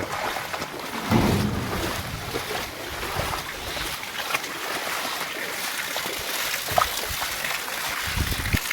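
Floodwater rushing along a village street: a steady, even wash of running water, with a couple of low bumps about a second in and near the end.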